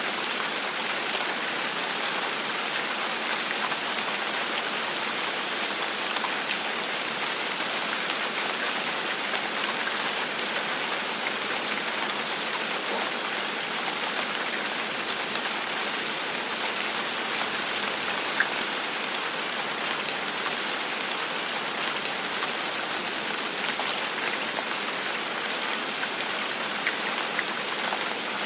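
Steady rain falling on a surface, an even hiss with scattered drop ticks and a few slightly louder single drops.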